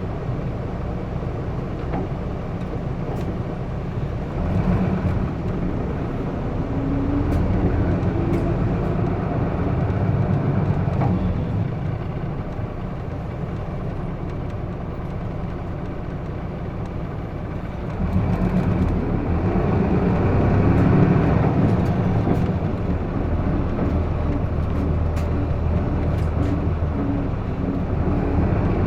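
Inside a Hino Blue Ribbon II city bus with a manual gearbox: the diesel engine and road noise of the bus under way. The engine note strengthens as the bus pulls away or accelerates about a third of the way in and again past the middle, and the engine pitch rises near the end.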